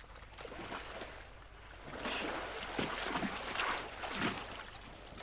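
Elephants wallowing in a muddy pool: irregular wet sloshing and splashing of mud and water, growing busier about two seconds in.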